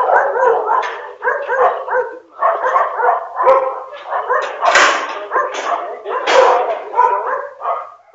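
A dog barking repeatedly in quick runs of short barks and yips, with two harsher, louder barks about five and six and a half seconds in.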